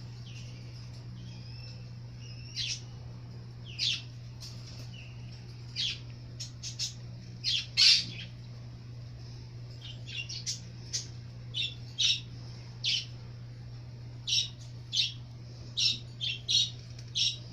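A pet bird squawking in short, sharp calls, about twenty of them at irregular intervals, with a few faint thin whistles in the first couple of seconds.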